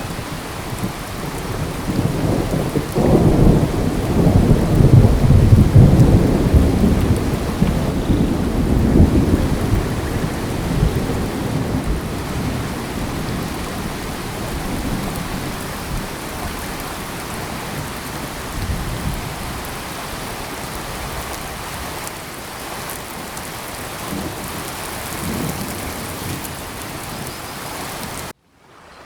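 Steady rain falling in a tropical forest, with a long rolling rumble of thunder that builds about two seconds in, peaks a few seconds later and slowly fades. The sound cuts off abruptly just before the end.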